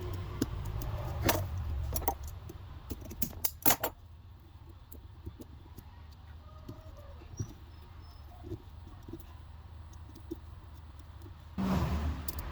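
Light clinks and knocks of small metal parts and tools being handled, with several sharp ones in the first four seconds over a low background rumble. These thin to faint scattered ticks, and a louder low noise comes in near the end.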